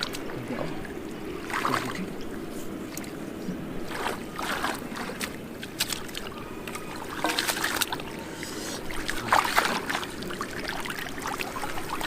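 Water splashing in shallow floodwater in several short bursts, about four times, over a steady low hum.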